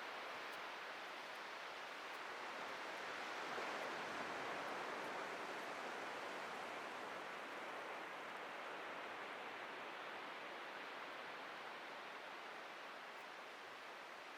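Atlantic surf breaking and washing on a beach: a steady hiss of waves that swells about four seconds in and then slowly ebbs.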